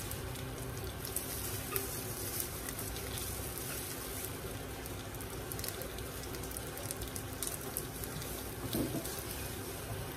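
Vietnamese spring rolls (chả giò) frying in hot oil: a steady sizzle with many fine crackles.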